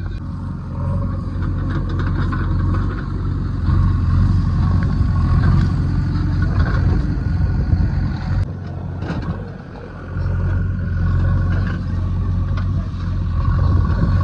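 JCB 3DX backhoe loader's diesel engine running under load, with a dip in level about two-thirds of the way through before it picks up again.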